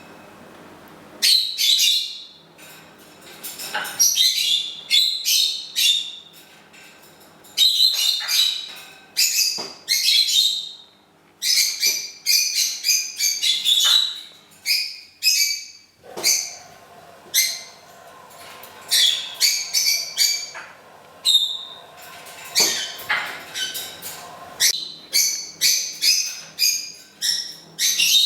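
African grey parrot whistling and chirping: many short, high calls in quick bursts, with brief pauses between them.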